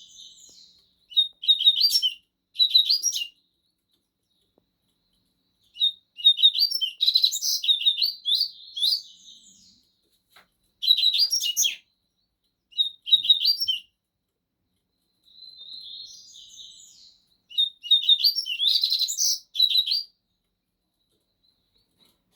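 Two double-collared seedeaters (coleiros) singing in turn: short phrases of fast, high, repeated notes about one to three seconds long, with gaps of silence between them, some phrases softer than others.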